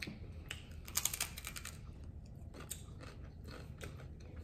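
Close-up chewing and crunching of a hard-shell taco, with a quick cluster of crisp crackles about a second in and a few more scattered after.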